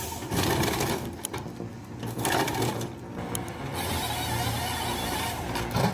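John Deere 1270G wheeled forestry harvester at work: its engine running under load with a fast, continuous mechanical clatter from the harvester head and hydraulics.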